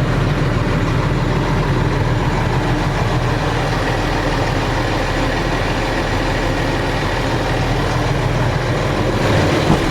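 Cummins ISC inline-six diesel engine of a Freightliner M2 truck idling steadily.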